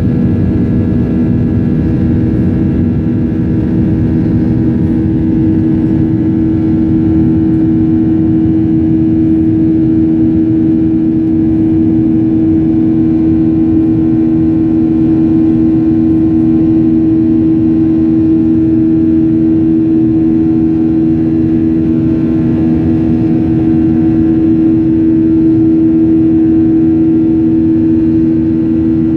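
Airliner's jet engines running at steady high power: a loud, even drone with a few held humming tones over a rumble.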